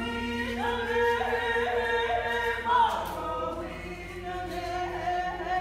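A group of voices singing unaccompanied, holding long notes, with one voice swooping up and down about three seconds in.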